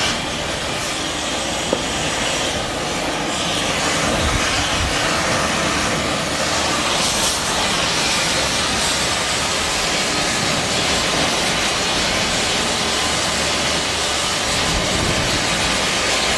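A large old engine running steadily and loudly, a dense mechanical noise without pauses.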